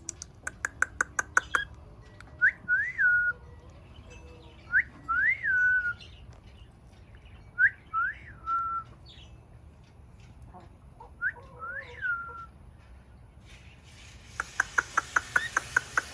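A cockatiel calling: a quick run of short repeated chirps, then four times the same whistled phrase, a short upward note followed by a rising-and-falling whistle that settles on a steady tone, with another run of rapid chirps near the end.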